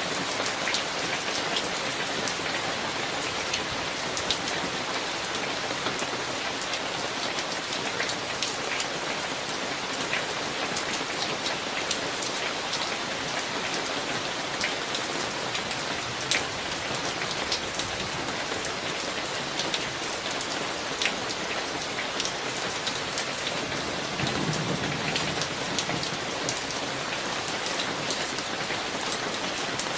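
Steady summer rain falling, with many sharp drop hits standing out from the hiss. A faint low rumble of distant thunder comes in briefly about three-quarters of the way through.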